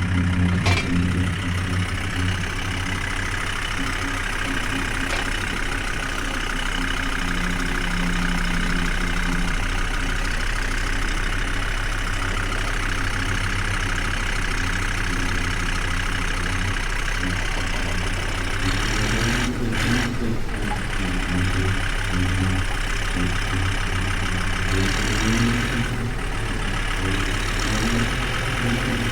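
Tractor engine running steadily while being driven. Its note shifts briefly twice in the latter part.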